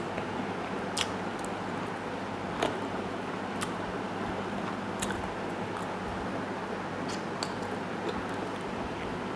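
A person eating chicken stew with soft rice: chewing and soft squishy mouth sounds, with a few short, sharp clicks scattered through, over a steady fan-like hum.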